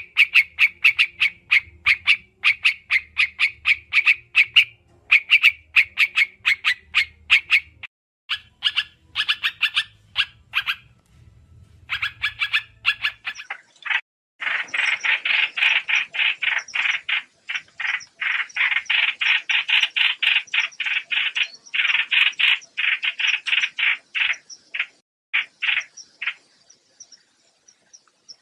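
Recorded lure calls of the bird known in Vietnamese as trao trảo: quick runs of short, sharp repeated notes. After a brief break about halfway, a denser and faster run of calls follows. A low hum lies under the first half.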